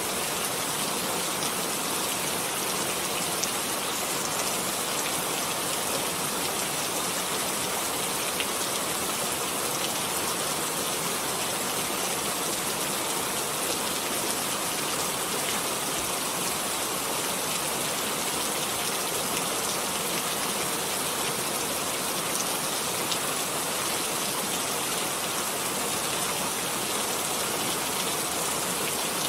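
Steady rain falling, an even hiss of many drops with a few faint separate drop ticks.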